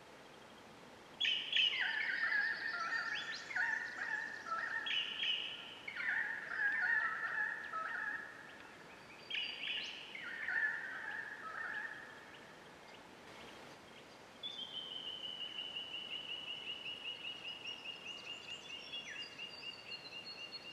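Wild birds singing in the bush: a run of loud, varied whistled phrases for the first half, then after a short pause a long series of quick repeated notes, about five a second, slowly falling in pitch.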